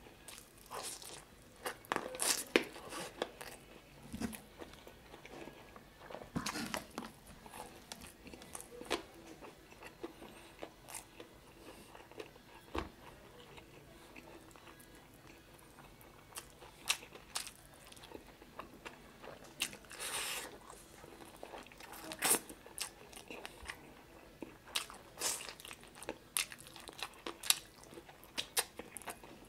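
Close-up eating sounds of a man chewing and biting into chicken adobo and rice eaten by hand: irregular clicks and crunchy bites with quieter gaps between.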